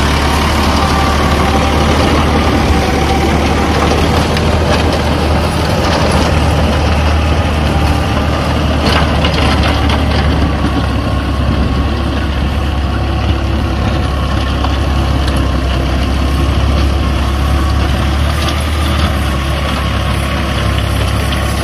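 Tractor diesel engine running steadily while ploughing dry ground.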